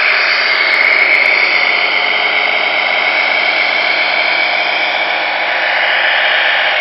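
Tamiya Scania R620 1/14 RC truck running, a steady whirr with a high whine that dips slightly in pitch during the first couple of seconds.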